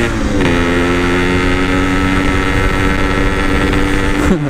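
Yamaha RX-King's single-cylinder two-stroke engine running under way through a very loud aftermarket exhaust. Its pitch dips about half a second in and drops sharply near the end, then picks up again.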